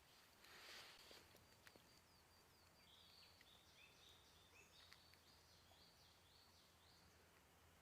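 Faint bird song: a run of quick, high chirping notes, many sliding downward, with a brief rustle about half a second in.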